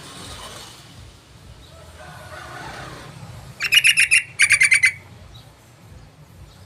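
Yellow-vented bulbul (trucukan) calling: two quick rattling bursts of about six sharp notes each, a short gap between them, about halfway through.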